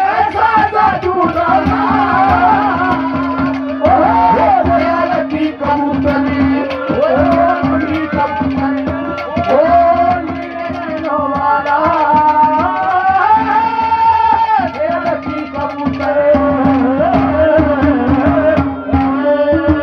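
Live Haryanvi ragni folk music: a hand drum keeping a fast rhythm under a steady held drone note, with a melody line sliding up and down over it.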